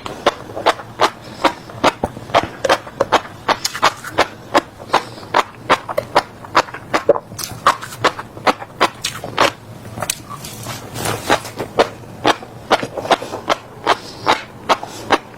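Close-miked chewing of crunchy seeds: sharp crisp cracks about two to three times a second, with a briefly softer, less crunchy stretch about two-thirds of the way through.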